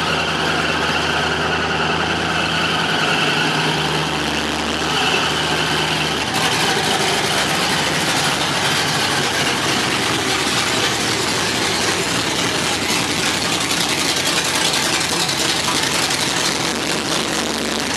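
1971 Camaro Z28's V8 engine running, first at a steady idle, then from about six seconds in a rougher, noisier rumble as the car is driven into the garage.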